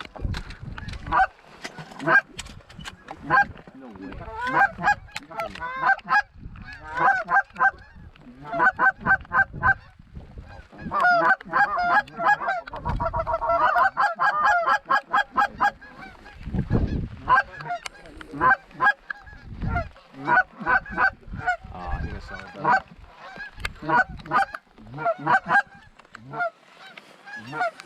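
Canada geese honking: many short honks and clucks in quick succession, densest about halfway through, with a few low thumps.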